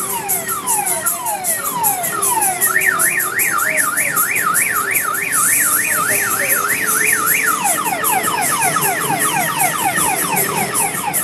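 Electronic alarm siren cycling through its tones: repeated falling sweeps, then a fast up-and-down warble for about five seconds, then quicker falling sweeps.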